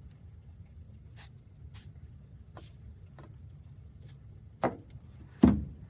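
Handling of a car seat's metal recliner mechanism: scattered light clicks, then two sharp knocks near the end, the second the louder, over a low steady rumble.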